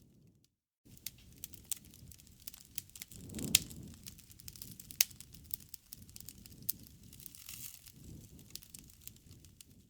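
Wood campfire crackling, with many small sharp pops over a low rumble of flame. A louder pop with a short surge of flame noise comes about three and a half seconds in, and a sharp crack at about five seconds. The sound cuts out for about half a second near the start.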